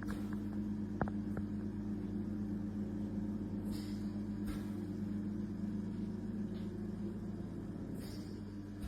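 A steady low mechanical hum, with a few faint clicks about a second in.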